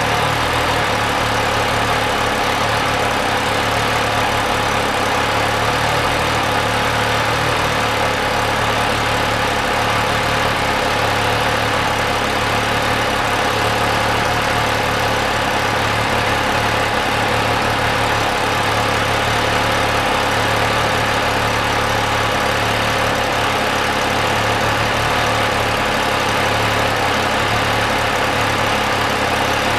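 MV Agusta Dragster 800 RR's three-cylinder engine running at a steady, unchanging speed.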